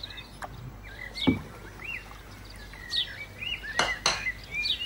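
A small bird chirping and warbling in short repeated phrases, with a few sharp knocks, the loudest about a second in.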